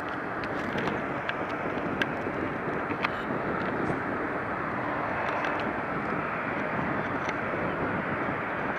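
Jet engines of a Boeing 747-400 airliner on its landing approach: a steady, gradually building rushing roar.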